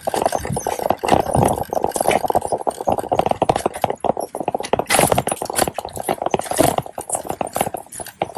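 Shopping cart rolling over pavement, its wheels and basket rattling in a fast, continuous clatter.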